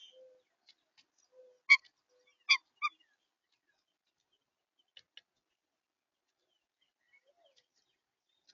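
A few short, sharp clicks from birds at a feeder: four in the first three seconds, then two close together about five seconds in.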